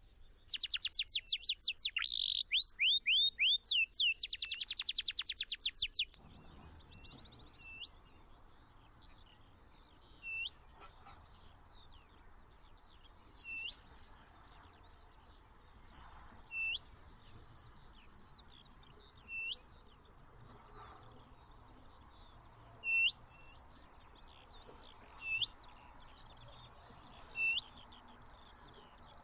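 Songbirds calling: a loud, rapid string of whistled notes for the first six seconds or so, then short single chirps every second or two over faint outdoor background.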